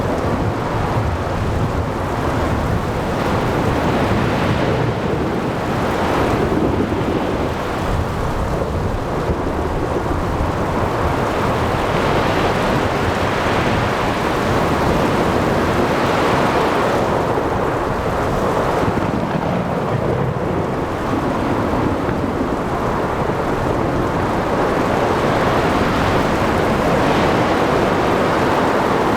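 Storm at sea: steady rain and wind with waves breaking and thunder rumbling, the whole noise swelling and easing every few seconds.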